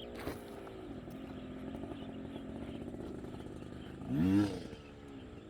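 Chinese-made motocross bike engine idling steadily, then blipped once about four seconds in, its pitch rising and falling back.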